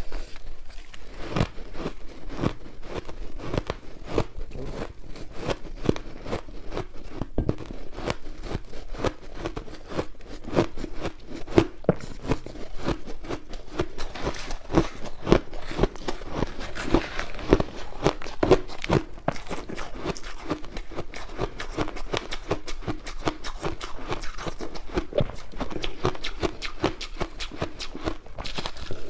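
White crushed ice bitten and chewed close to the microphone: dense, irregular crunching, several crunches a second.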